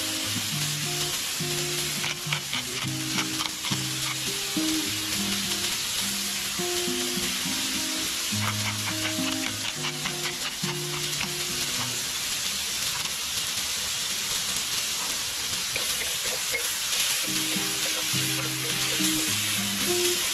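Pork, onion and tomato sizzling steadily in a hot wok, with runs of quick ticks as black pepper is ground over the pan. Background music plays underneath, dropping out for a few seconds midway.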